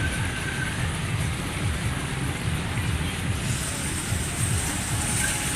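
Steady rumbling noise of a night-market train ride running, with a hiss over it and no clear beat or rhythm.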